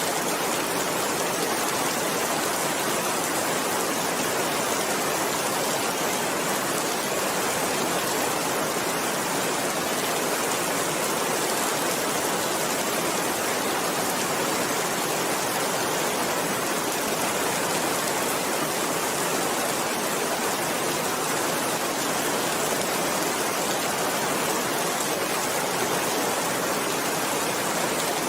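Steady rain falling, an even hiss that neither builds nor fades, with no thunder.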